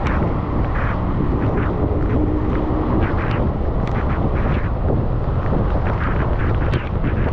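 Wind rumbling on the camera microphone of a bicycle riding through a rainstorm, with short hisses breaking through it again and again.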